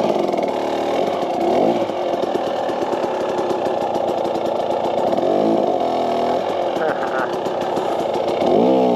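KTM 300 XC-W two-stroke dirt bike engine idling, its revs swinging up and down a few times.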